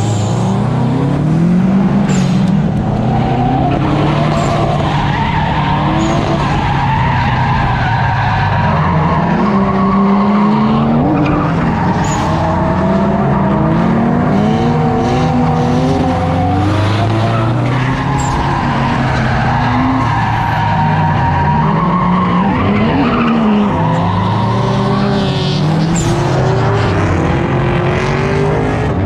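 Several drift cars running together, their engines revving up and falling back in overlapping rises and falls, with tyres skidding.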